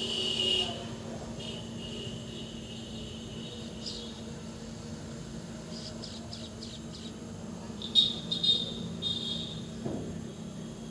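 Morning chorus of birds chirping and insects calling in a steady high-pitched drone, with a few louder bird chirps about eight seconds in.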